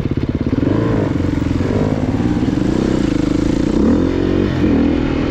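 Dirt bike engine running at low revs with an even, chugging pulse, then revving up and down several times as it is ridden over rough ground.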